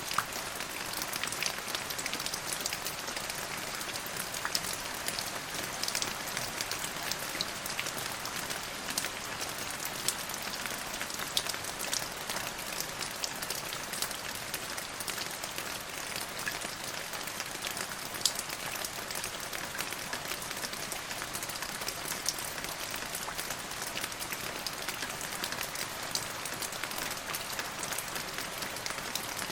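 Steady rain falling on a surface, a continuous hiss dotted with the sharp ticks of individual drops.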